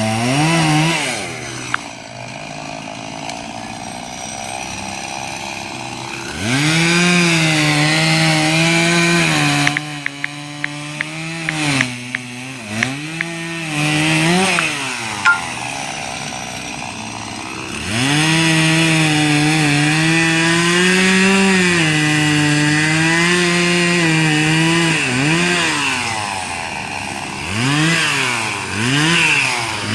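Chainsaw cutting a tree, held at full throttle for two long stretches of several seconds each. In between it drops back to a lower pitch with several quick revs, and there is a run of sharp clicks around the middle.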